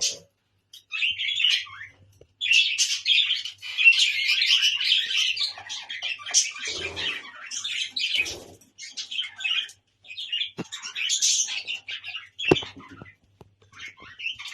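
A colony of budgerigars chattering and warbling, many high chirps overlapping in bursts with short pauses. Near the end come a few sharp clicks.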